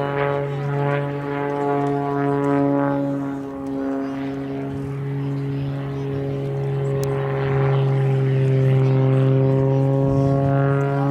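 A propeller aircraft's engine running with a steady, pitched hum that grows a little louder about two-thirds of the way through.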